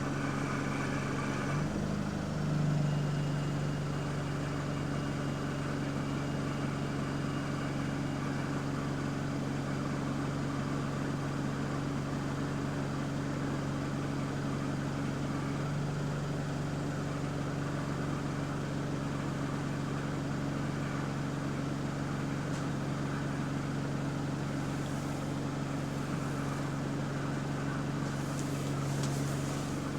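Bus running along its route, heard as a steady low drone of engine and cabin hum; the uploader puts the constant background noise down to the air conditioning. The pitch of the drone shifts slightly about two seconds in.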